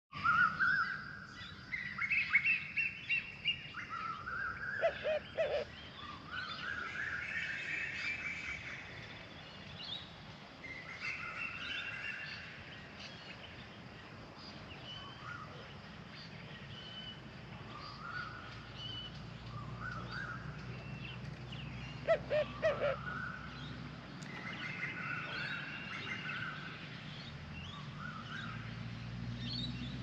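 Outdoor birdsong: repeated short rising chirping phrases from several small birds, with a low call of a few quick notes twice, about five seconds in and again a little past twenty seconds.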